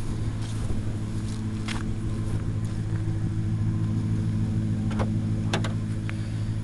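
Dodge Magnum R/T's 5.7-litre Hemi V8 idling steadily through an aftermarket Magnaflow exhaust. A few sharp clicks come about five seconds in.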